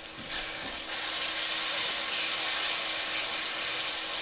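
Ginger-garlic paste and browned onions sizzling in hot oil as they are stirred with a slotted spatula. The sizzle swells about a second in and stays loud.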